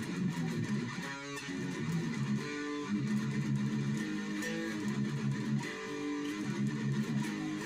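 Epiphone Gothic SG electric guitar playing chords through an amplifier, each chord held for about a second before the next.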